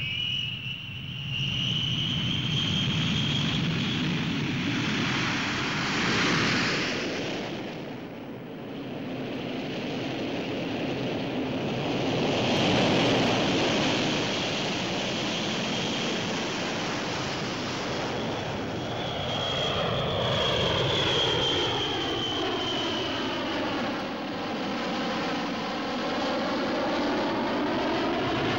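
B-52 bomber's jet engines running steadily, a high turbine whine over a continuous rush, as the aircraft comes in to land. The whine rises at the start and then holds, and in the second half the tone sweeps down and back up as the aircraft passes.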